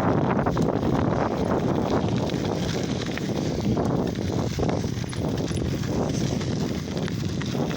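Lowrider bicycle being ridden: a steady rush of wind on the microphone and tyres on the road, with scattered light knocks and rattles from the bike.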